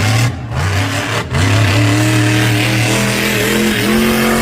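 Monster truck's supercharged V8 revving hard at full volume, its pitch holding, rising and dipping, with a short break in the revving about a second in.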